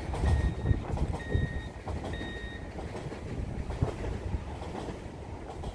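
NS double-deck electric passenger train running past on the track, a steady low rumble of wheels on rail with scattered clatter. Over the first two and a half seconds a high electronic beeper sounds three times, about once a second.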